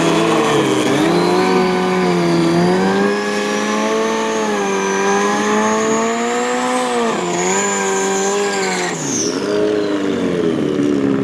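Superbike engine accelerating hard, its note climbing with brief dips at gear changes and a high whine rising alongside, then falling away as the throttle is closed near the end.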